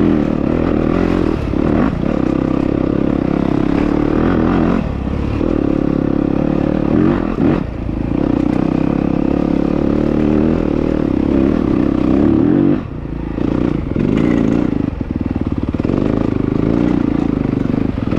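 Dirt bike engine running hard on a trail ride. The revs rise and fall as the throttle is worked, with several brief drops where the throttle is rolled off.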